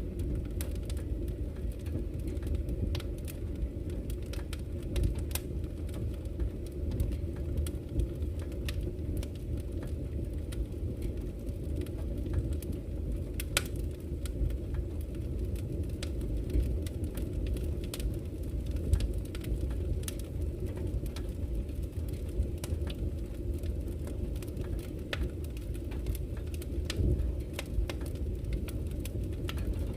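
Campfire crackling with frequent small pops, one sharper pop about halfway through, over a steady low rush of flowing river water.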